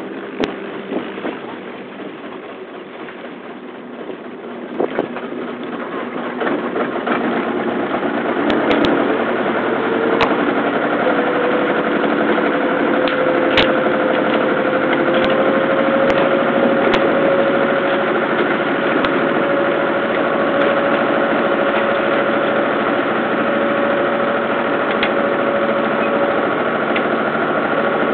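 Engine of a small river ferry boat, at first running quietly. It rises in level over a few seconds and settles into a steady drone, its pitch creeping slightly upward as the boat gets under way. A few sharp knocks are heard along with it.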